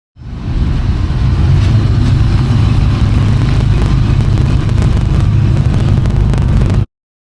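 Classic truck engine running with a steady low exhaust rumble, starting suddenly and cutting off suddenly near the end.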